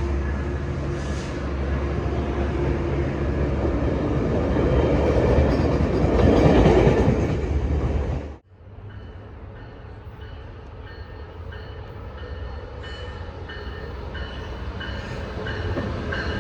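A diesel-hauled passenger or freight train running past, its engine hum and rolling noise growing louder. About halfway through, the sound cuts off abruptly and gives way to a quieter train sound that builds again near the end.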